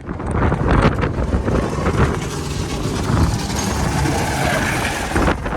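Wind buffeting the microphone in gusts and crackles, over the low steady rumble of a truck.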